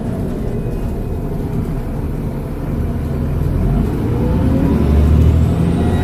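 Transbus Trident double-decker bus's diesel engine pulling, its pitch rising and getting louder from about halfway through as the bus accelerates. A faint high turbo whistle rises near the end.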